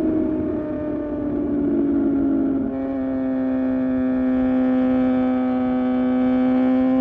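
Suzuki GSX-R750's inline-four engine running under way. Its pitch sags slowly, then about three seconds in the sound abruptly turns smoother and steadier, and it edges up again near the end.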